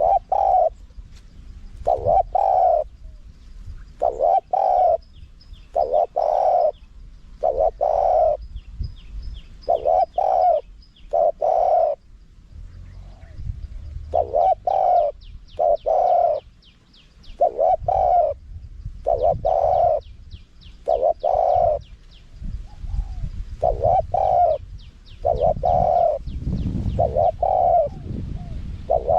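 Spotted dove cooing: a wild-type song of short, low coos repeated in runs with brief gaps, the kind played as a decoy call to draw wild doves in.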